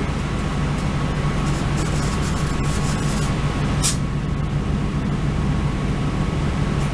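Northern Ireland Railways diesel multiple unit running, heard from inside the carriage: a steady low engine drone with rail and running noise and a thin whine, and one sharp click about four seconds in.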